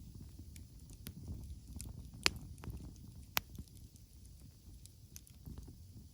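Wood campfire burning: a low steady rumble of flames with scattered small crackles and two sharp pops, about two and three and a half seconds in.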